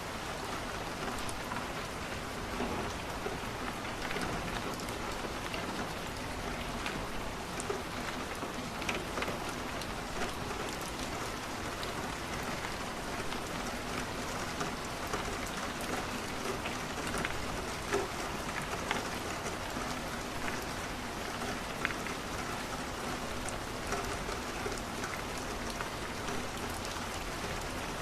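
Steady rain falling, mixed with the crackle of a wood fire in a fireplace: many small, sharp pops scattered over the even rush of the rain.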